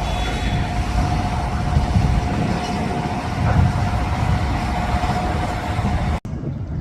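Boeing 737 jet engines running, a steady loud rumble with a constant whine above it, which cuts off abruptly about six seconds in.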